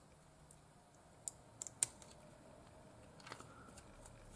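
A few light, sharp clicks and taps of small craft parts being handled on a work surface while gluing, the loudest just before two seconds in.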